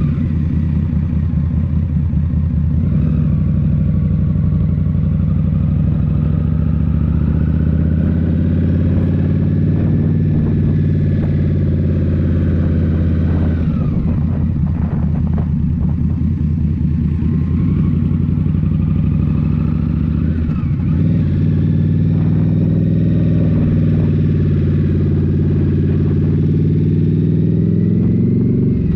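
Indian Scout Rogue's 69 cu in V-twin running under way through Rinehart slip-on exhausts, heard from the rider's seat. The engine note is steady, dips a little around the middle, and climbs again near the end.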